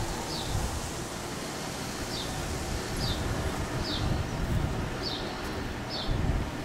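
A bird repeating a short, high, falling chirp about once a second, over a steady low wind rumble on the microphone.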